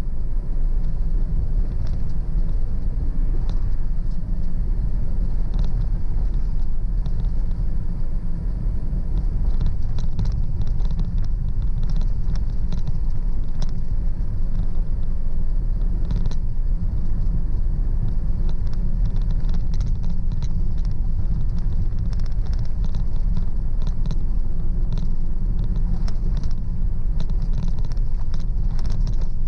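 Car driving along a road: a steady low rumble of tyres and engine, with faint scattered ticks over it.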